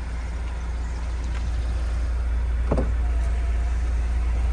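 Car engine idling steadily shortly after a cold start, a low rumble, with one short knock a little under three seconds in.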